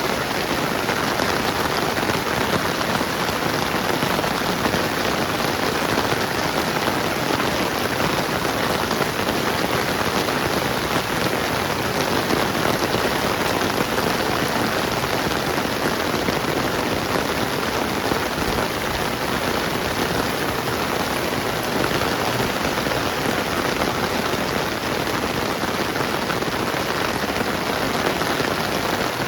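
Steady rain falling on surfaces: a continuous, even hiss of raindrops with no letup.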